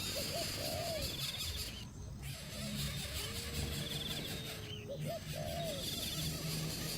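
Outdoor wildlife ambience: short, low, arching animal calls come in pairs near the start and again about five seconds in, with a long, slowly falling call between them. Brief high, buzzy insect-like trills sound three times.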